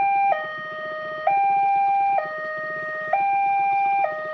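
Railway level-crossing warning alarm sounding its two-tone electronic signal, alternating steadily between a higher and a lower tone, each held just under a second.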